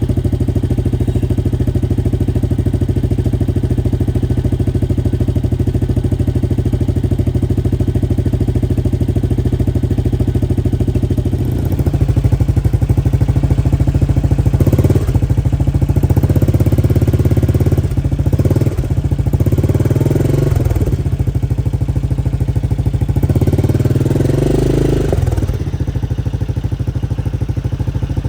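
2019 Yamaha Kodiak 700 ATV's single-cylinder four-stroke engine idling steadily through its exhaust, then revved in several surges over the second half before settling back to idle near the end.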